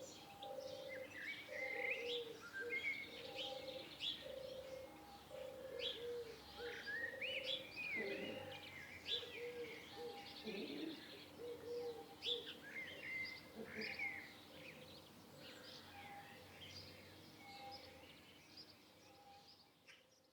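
Several birds chirping and singing in short rising phrases, over a steady run of repeated low cooing notes. The sound fades out near the end.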